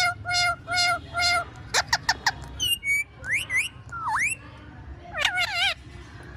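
Pet parrot whistling a varied string of notes. It gives three short whistles on one pitch, then quick falling sweeps, rising glides and a swooping note, and ends with a wavering trill.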